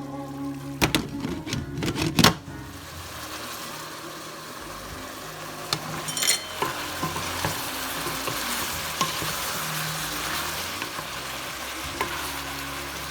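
A few sharp clanks of cookware or utensils, then food sizzling steadily in hot oil in a frying pan, the sizzle growing a little stronger partway through.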